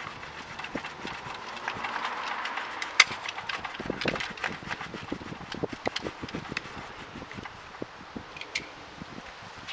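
Fallen tree branches and twigs being handled and broken up: irregular snapping and crackling of wood with rustling brush, one sharper crack about three seconds in.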